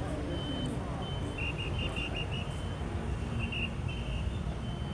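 Steady low rumble of street traffic with a vehicle's reversing alarm: a high electronic beep repeating roughly every half second to second, with a quick run of about five chirping beeps about a second and a half in and a shorter one past the middle.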